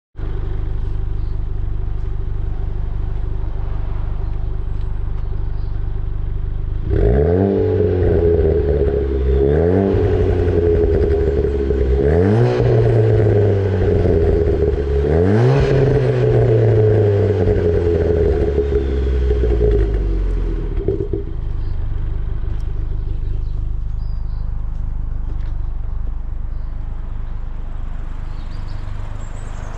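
Ford Fiesta ST's turbocharged engine idling through a loud stage 2 exhaust. About seven seconds in it is revved four times, each rev climbing quickly and falling back more slowly. It then settles back to a steady idle for the last several seconds.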